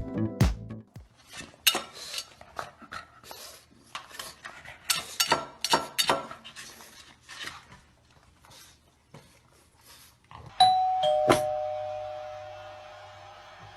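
A scatter of light clicks and taps, then near the end a two-tone doorbell chime sounds ding-dong, the second note lower, and rings away slowly.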